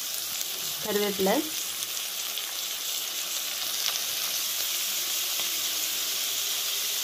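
Sliced onions, green chillies and curry leaves sizzling steadily as they fry in hot oil in a metal pan.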